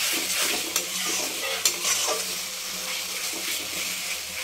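Green chilli, ginger and garlic paste with onions sizzling in hot oil in a kadhai while a metal spatula stirs and scrapes it: the bhuna stage of a curry masala. Two sharp knocks of the spatula on the pan come in the first two seconds, and the sizzle is louder in that stretch than after.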